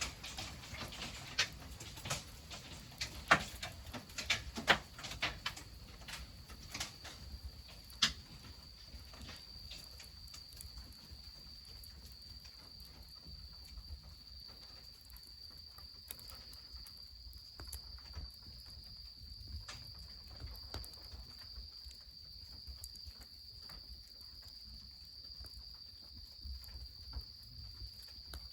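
Wood fire crackling, with sharp pops and snaps over the first eight seconds or so, then only occasional faint ticks. From about eight seconds in, an insect's steady high trill sounds continuously over a low steady rumble.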